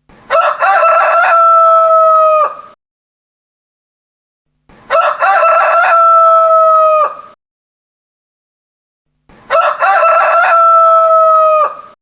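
Rooster crowing three times, about four and a half seconds apart, the same crow repeated each time: a broken opening followed by a long held note that drops off at the end.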